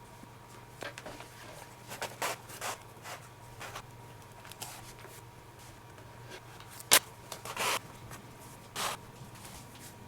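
Leather lace being pulled and worked through the lacing holes of a baseball glove: short scraping rustles, with a sharp click about seven seconds in, over a steady low hum.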